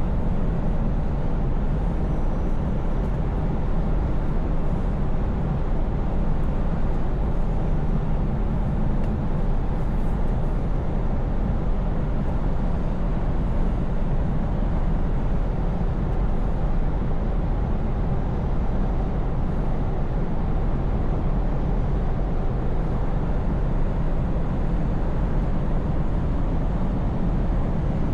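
Scania S580 truck's V8 diesel engine running steadily at an even pitch while the truck drives along, with a constant rushing noise over the engine's low hum.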